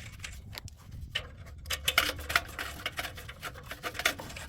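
Socket ratchet with an extension clicking in short, irregular runs, more of them from about two seconds in, as a nut is worked on an exhaust stud.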